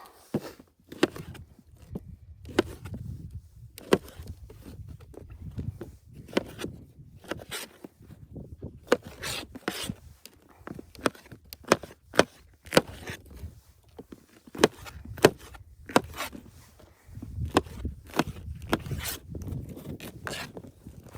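Irregular sharp wooden knocks and clicks with some scraping and rubbing, a few a second at times, over a low rumble that comes and goes.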